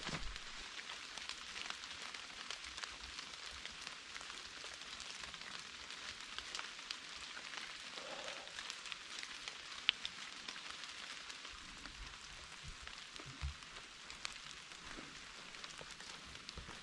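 Steady rain falling in the forest: an even hiss with many small sharp drop ticks. A few soft low thumps come near the end.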